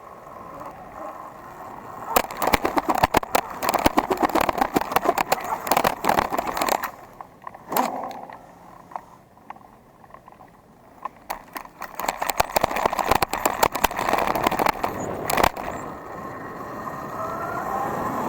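Sur-Ron electric dirt bike being ridden over rough ground. There are two spells of rapid rattling and knocking, each several seconds long, and a faint changing whine near the end.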